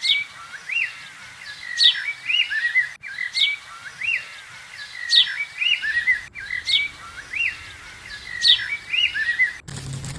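Birds chirping: a short run of quick high chirps and sharp falling whistles, the same phrase of about three seconds repeating three times with abrupt breaks between.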